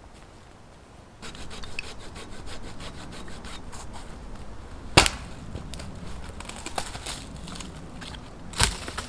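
Wood being sawn by hand: a run of quick rasping strokes starts about a second in. Two sharp wooden knocks come at about five seconds and near the end.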